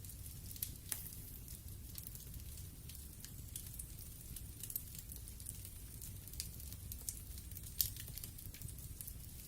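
Wood fire burning in a fireplace: a low steady rumble of flames with irregular sharp crackles and pops of the burning logs, a louder pop near the end.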